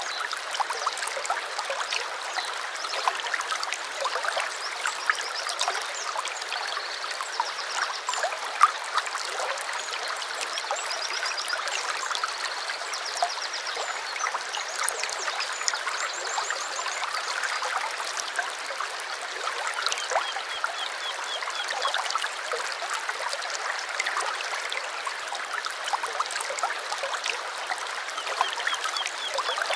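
A small stream trickling and gurgling steadily, with short, rapid, high bird trills several times above the water.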